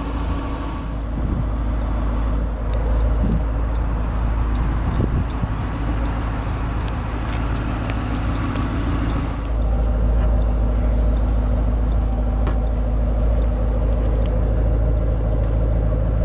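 Ford Mustang GT's 4.6-litre V8 idling steadily. It gets louder about nine to ten seconds in.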